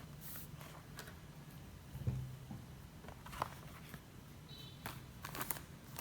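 Desk-work handling sounds: scattered light clicks and taps, with a thump about two seconds in, over a low steady hum.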